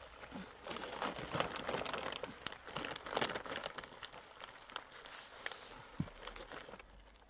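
Plastic sheeting crinkling and rustling as it is handled, a dense run of irregular crackles that thins out near the end.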